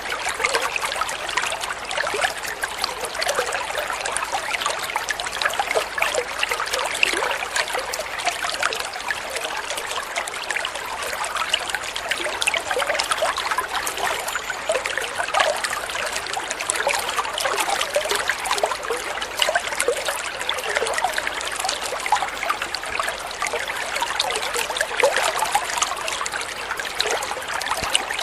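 Flowing water trickling and splashing steadily over stones, like a small stream, a dense patter of small splashes with no rushing low rumble.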